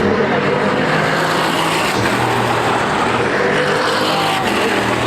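Several stock-car racing V8 engines running together, a dense overlapping mix of engine notes whose pitches rise and fall as the cars rev.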